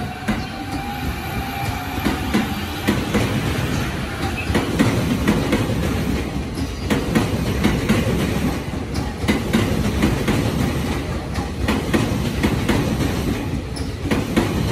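JR E231-series electric commuter train running past along the platform: a steady rumble of wheels on rail, with repeated clicking as the wheels cross rail joints.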